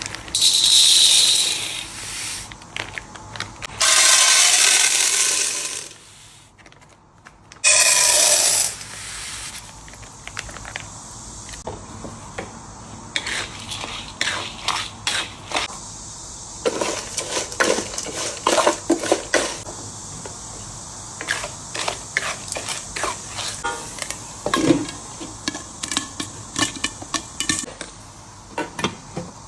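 Three loud rushing sounds in the first nine seconds, then popcorn kernels popping in a pot: scattered sharp pops that pick up into a fast run in the middle and thin out near the end.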